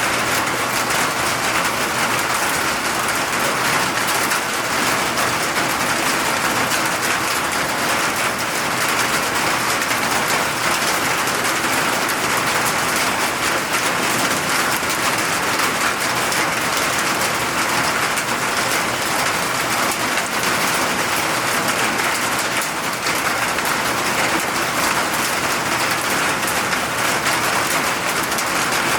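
Steady rain falling and pattering on surfaces, a dense, even hiss of many fine drops with no breaks.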